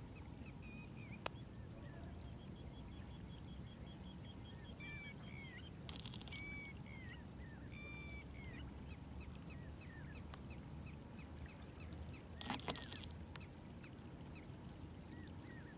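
Birds calling over a steady low background rumble: many short chirped and whistled calls, a fast trill a few seconds in, and two brief harsh bursts, one near the middle and one later.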